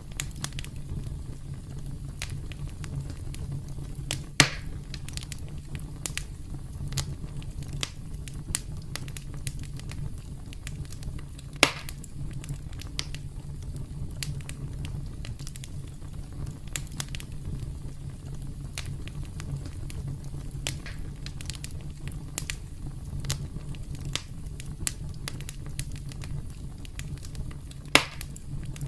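Campfire crackling: a steady low rumble of burning wood with a constant scatter of small snaps, and three louder pops spread through it.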